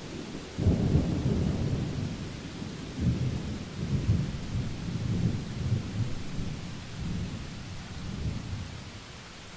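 Thunder rolling in a series of low rumbles, starting sharply about half a second in, swelling again about three seconds in and dying away near the end, over a steady hiss of rain.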